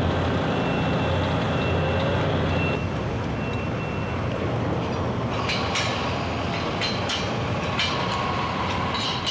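Heavy construction equipment's diesel engines running with a steady low rumble, with a high intermittent beeping over the first few seconds. From about five seconds in, a series of sharp knocks and clanks.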